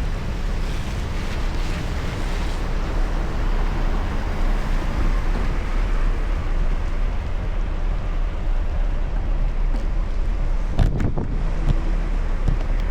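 Wind rushing over the microphone while cycling: a steady loud rumbling hiss. A few short clicks about eleven seconds in.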